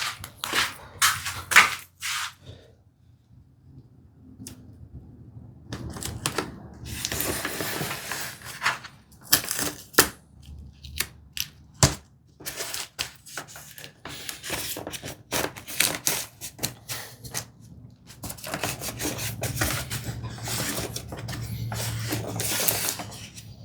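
Light wooden knocks and clatter from thin wooden tambour slats and a plywood jig being handled on a workbench, with stretches of wood sliding and scraping in between.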